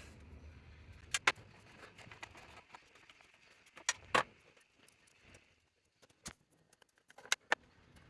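Scattered sharp metallic clicks and clinks of hand tools and parts on a car engine as the ignition coils are taken off, mostly in close pairs with quiet gaps between.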